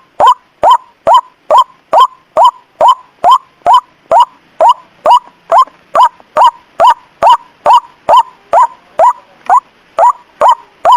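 White-breasted waterhen call from a bird-trapping lure recording: a short, loud note repeated evenly, about twice a second.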